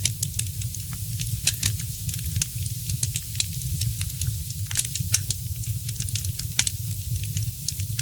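Fireplace fire crackling, with frequent sharp, irregular pops and snaps over a steady low rumble.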